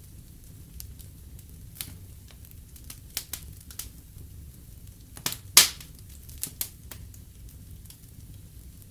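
Fire burning in a fireplace: a low steady rumble of flames with scattered sharp crackles and pops. The loudest pop comes a little past halfway, in a cluster of several.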